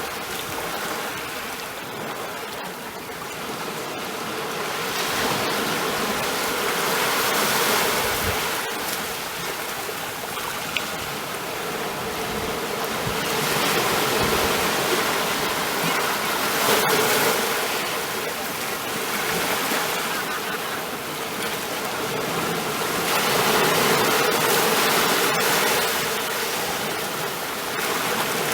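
Ocean waves, a continuous rush of surf that swells and eases every several seconds.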